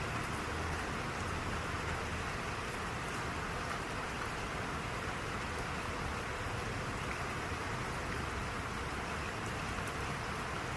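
Steady rain, an even hiss with faint scattered drop taps.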